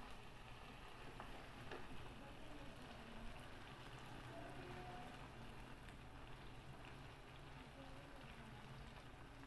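Chicken adobo sizzling faintly in a wok, frying in its own rendered fat: a steady soft crackle, with a few light clicks of the metal spatula against the pan in the first few seconds.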